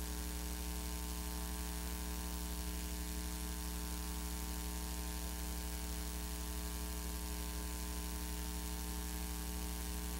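Steady electrical mains hum with a faint hiss, unchanging throughout: the background hum of a VHS tape playback and capture.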